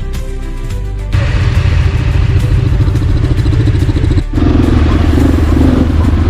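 Background music with held notes stops abruptly about a second in, and a motorcycle engine takes over, running loud and close. The engine sound breaks off for a moment about four seconds in, then goes on.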